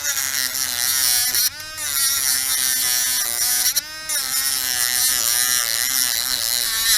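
Small high-speed electric rotary tool running with a steady whine, cutting through the protective coil sleeve over a Ford Ranger door-release cable. Its pitch dips briefly twice as the tool bogs under load.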